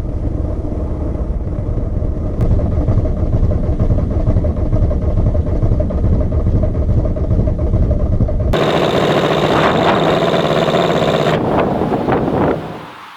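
Diesel engine running, a steady low rumble. About eight seconds in, the sound abruptly turns harsher and brighter with less low rumble, then falls away briefly just before the end.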